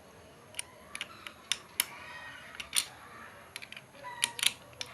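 Scattered sharp clicks and taps of a tool and metal parts being handled as a bolt on a mini electric chainsaw attachment is tightened.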